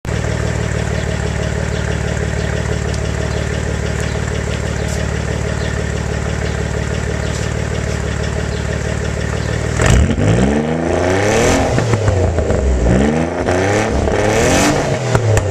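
Nissan 300ZX twin-turbo V6 running through a full exhaust with the catalytic converter deleted and 2-inch resonators, idling steadily. About ten seconds in it is revved in about three blips, the pitch rising and falling each time.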